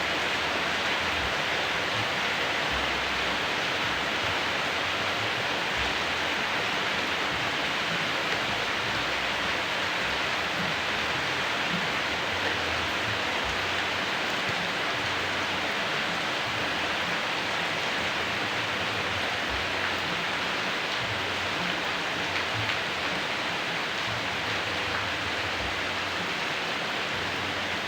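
Steady rain falling, an even hiss of rain with faint low rumbles underneath.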